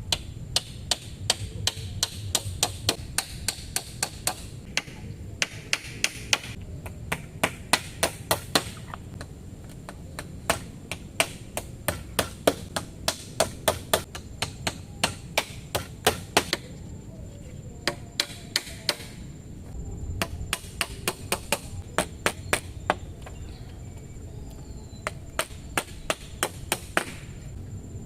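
Rapid chopping with a blade, sharp strikes about three to four a second in runs, with brief pauses between runs.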